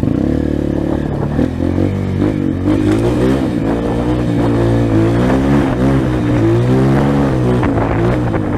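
Trail motorcycle engine revving up and down unevenly under load, its pitch wavering as the rider works the throttle through slippery mud.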